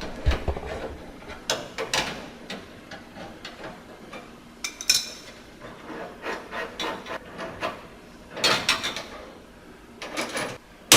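Irregular metallic clinks, scrapes and rattles of hand tools, with the loudest clusters near the end: wrenches working loose the bolts of the four-link bars on a Fox Body Mustang's rear end.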